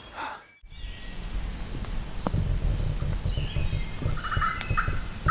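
A wild turkey tom gobbling, a fast rattling call heard about four seconds in. A loud, irregular low rumbling flutter runs underneath.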